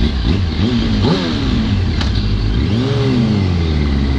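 Yamaha R1 inline-four sport bike engine heard from the rider's seat, revving up and easing off a few times as he rides, over a steady rush of wind.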